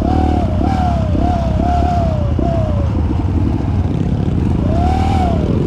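Kawasaki KLX trail bike engine running, with a whine over it that rises and falls over and over, one longer swell near the end. This is the odd electric-motor-like noise the bike has been making.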